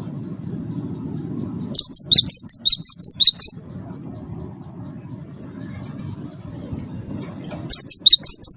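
Cinereous tit (gelatik batu) singing: two loud bursts of about a dozen rapid, high, sharp chirps each. The first starts about two seconds in and the second near the end. A faint steady high whistle and a low hum sit between the bursts.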